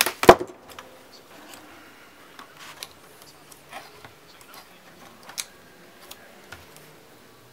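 Laptop parts handled on a workbench: one sharp click shortly after the start, then scattered light taps and clicks of plastic and small parts being set down and fitted.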